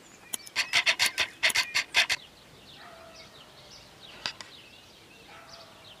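A bird's quick series of about ten harsh, rasping chatter calls over two seconds, followed by faint bird calls in the background.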